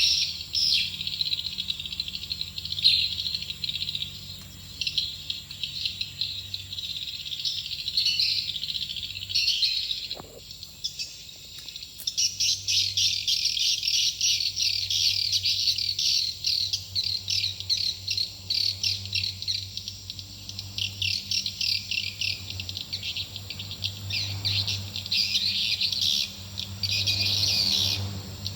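Swiftlet lure call: rapid, dense twittering chirps of swiftlets, the calling sound played to draw swiftlets into a nesting house, with a short lull a third of the way through. A low steady hum runs beneath.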